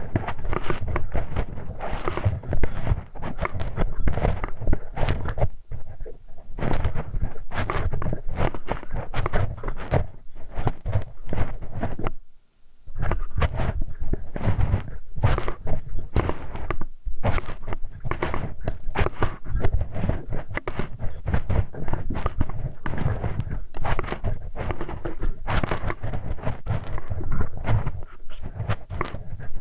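Close-miked ASMR ear-cleaning sounds: tools scraping, rubbing and tapping right at the microphone's ear in a dense run of quick scratches and knocks, with a brief pause about twelve seconds in.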